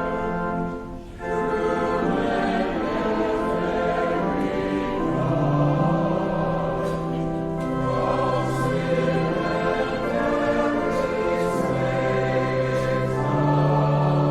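Choir singing sustained, slow-moving lines, with a brief break about a second in.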